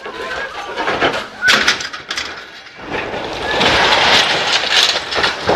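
Vehicle and road noise on a dashcam, with a sharp clatter about a second and a half in and a louder harsh rush of noise from about three seconds on.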